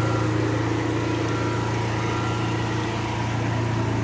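Steady low mechanical hum of an engine running at idle, constant in pitch and level.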